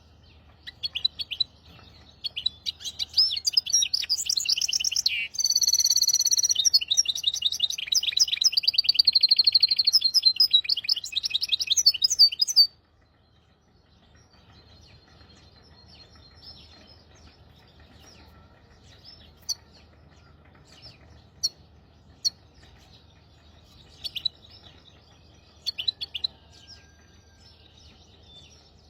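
Hybrid finch singing a long, fast song of high trills and chirps that stops suddenly about halfway through; after that only scattered single chirps.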